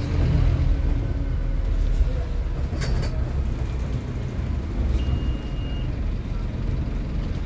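Scania N230UD OmniCity bus's diesel engine running with a heavy, steady low rumble. A short click comes about three seconds in, and a brief high beep about five seconds in.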